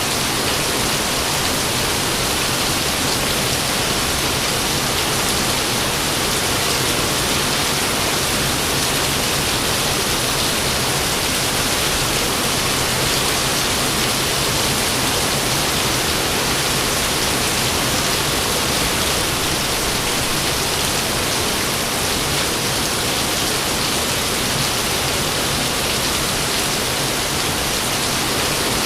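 Steady rain falling, an even hiss that does not change, with no thunderclaps.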